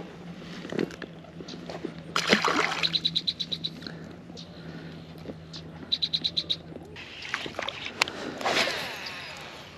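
Water splashing in several swells, the strongest about two seconds in and near the end, with two short runs of rapid clicking, about ten a second, in between.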